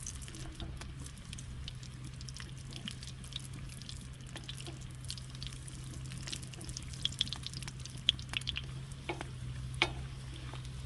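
Puff pastry deep-frying in hot oil: a steady sizzle with scattered sharp pops and crackles, a few louder pops late on.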